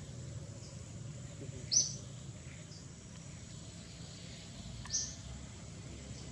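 Two short, high bird chirps, one about two seconds in and another about five seconds in, over a steady low background rumble.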